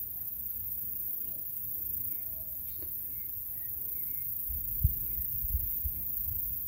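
Faint, short bird chirps scattered over a low steady rumble, with a few dull low thumps about five seconds in.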